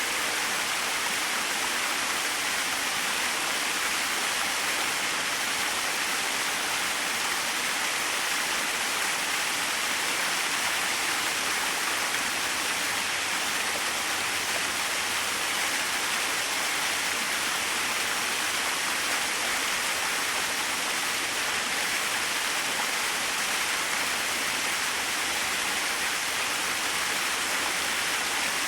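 Small waterfall splashing steadily: an even, unbroken rush of falling water, mostly hiss with little low rumble.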